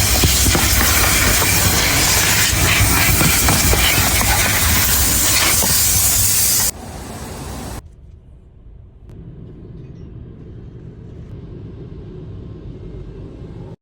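High-pressure spray wand hissing loudly, cutting off abruptly about seven seconds in. A softer hiss lasts another second, and then only a faint low rumble remains.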